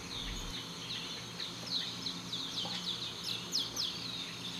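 A flock of small birds chirping, with many short, quick descending chirps overlapping one another, over a faint steady low hum.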